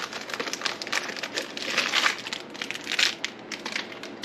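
Plastic wrapping on monitor-arm parts crinkling as it is handled and pulled open, in irregular bursts that are loudest about two and three seconds in.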